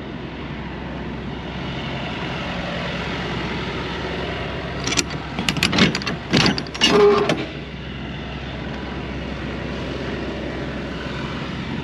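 Semi-truck diesel engine running steadily, heard from the cab, with a short cluster of sharp knocks and clatter in the middle.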